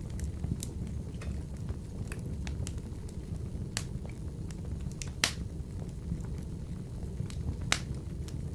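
Wood fire burning in a wood-burning stove: a steady low rumble of the flames with irregular sharp crackles and pops, two louder pops about five and a half and three quarters of the way through.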